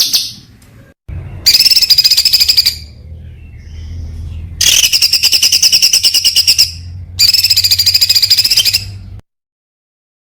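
Songbird singing rapid runs of repeated high notes, the fast 'shot' type of song used to train contest birds, in three bursts with short pauses between, over a low hum. The sound drops to dead silence about a second before the end.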